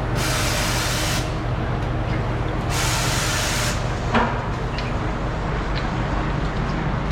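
Two sharp hissing bursts of about a second each, roughly two and a half seconds apart, over a steady low machinery hum; a short knock about four seconds in.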